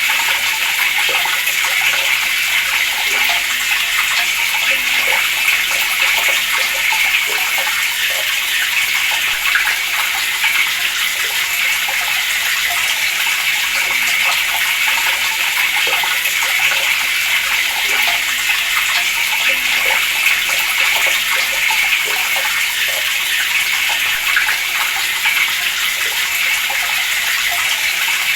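Water running from a tap in a steady stream, a constant splashing hiss.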